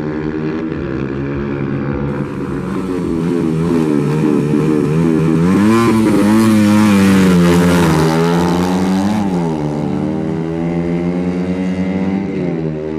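Dirt-bike engines running and revving, the pitch wobbling with throttle blips, climbing and growing loudest in the middle, then dropping back.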